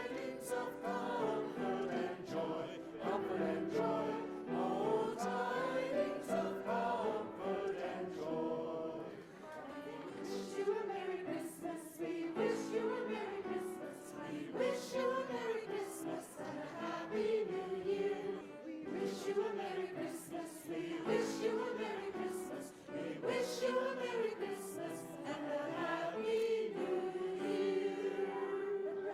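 A choir singing in several-part harmony, with long held notes.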